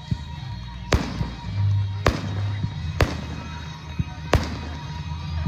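Aerial fireworks bursting: four sharp, loud bangs about a second apart with echoing tails, and fainter pops between them, over music with a steady bass.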